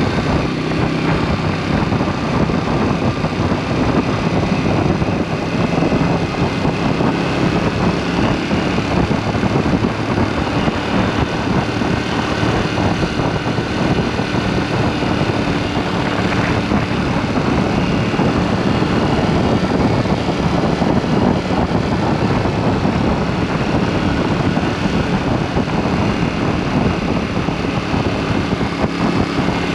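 KTM 790 Duke's parallel-twin engine running under way through an aftermarket SpeedPro Cobra SPX exhaust, at fairly steady revs with small changes in pitch.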